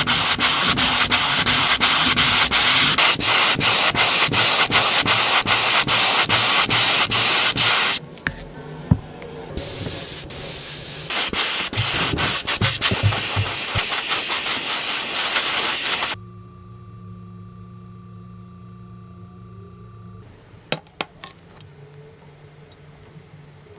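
Power sanding on the car's bodywork: a loud, steady sanding noise, broken off once and then resumed. It gives way to a much quieter steady machine hum with a few sharp clicks near the end.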